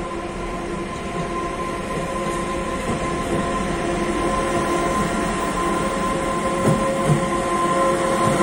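Siemens Vectron electric locomotive hauling a freight train, approaching and passing close by on the near track. Its running noise grows steadily louder, with a steady whining tone and a couple of wheel knocks on the rails about seven seconds in.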